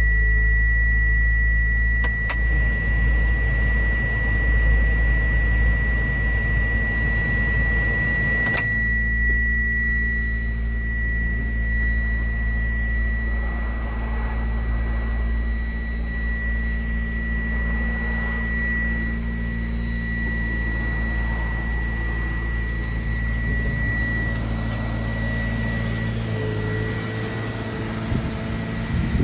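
A 1995 Subaru Sambar mini truck's small four-cylinder engine idling steadily, with a thin steady high tone over the hum that fades out a few seconds before the end. Two sharp clicks sound, about 2 and 8 seconds in.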